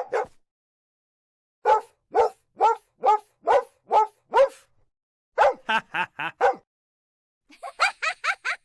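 A dog barking in runs of short, sharp barks. The first run has about seven barks at roughly two a second. After a short pause comes a quicker run of five. Near the end there is a rapid run of higher yaps.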